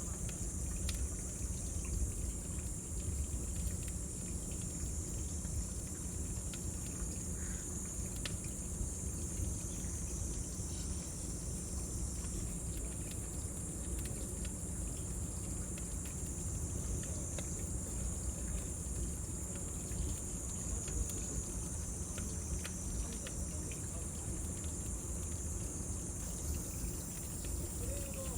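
Cicadas droning in a steady high-pitched band, over the low rumble and scattered crackles of a burning bonfire.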